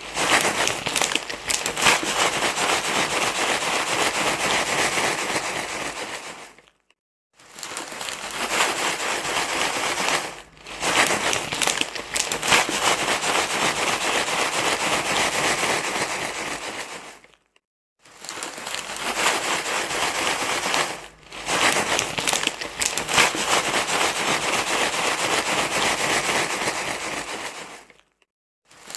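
Loud, continuous crinkling rustle, like something crinkly being crumpled and handled, with short dropouts about every eleven seconds and briefer dips between them.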